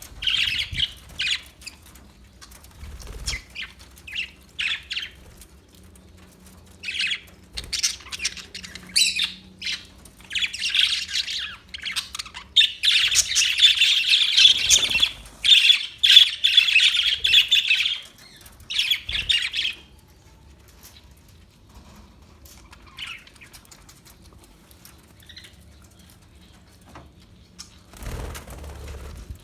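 Parakeets chirping and chattering in repeated bursts, building to a dense continuous stretch of calls about halfway through, then thinning to a few faint calls.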